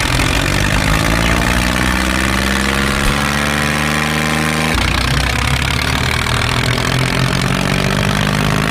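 Tractor engine running steadily and slowly rising in pitch, then cutting abruptly to a lower engine sound about five seconds in.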